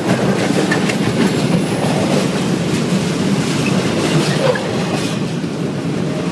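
Freight train of autorack car carriers passing very close: a loud, steady rumble and clatter of steel wheels on the rails, with scattered clicks.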